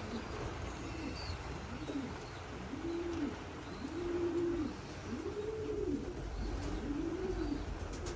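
Racing pigeon cooing in the loft: a run of about five low coos, each rising and falling, roughly one a second.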